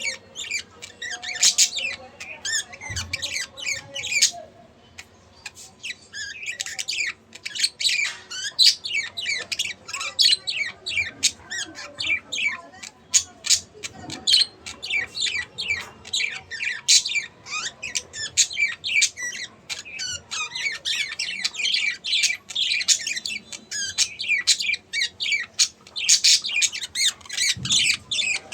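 Budgerigars chattering and warbling in a continuous run of rapid high chirps and squawks, with a brief lull a few seconds in.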